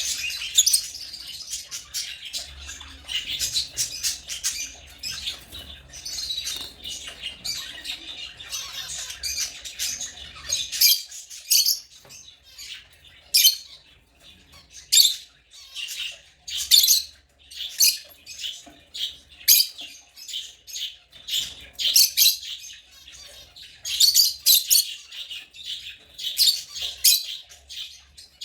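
Lovebirds chattering and squawking: a dense run of fast, high chirps for about the first ten seconds, then separate sharp squawks every second or so.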